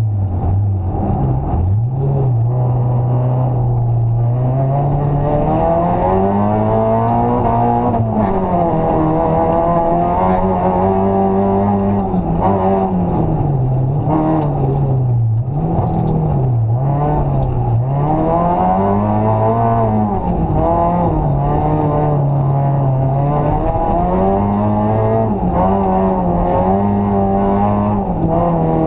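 Rally car engine heard from inside the cabin at full stage pace, its revs climbing and dropping again and again as the driver accelerates, shifts and lifts for corners.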